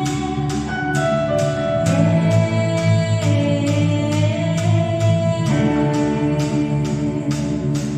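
Christian worship song: voices singing held notes over instruments, with a steady beat of a little over two strikes a second.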